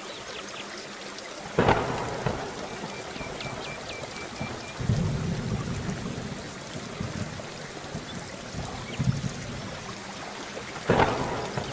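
Steady rain with thunder: two sharp thunderclaps, one about one and a half seconds in and one near the end, and a low rumble rolling from about five seconds in.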